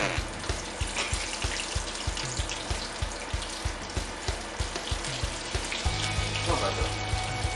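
Potato-starch-coated herring roe deep-frying in a pan of oil, sizzling steadily, with background music that has a steady low beat.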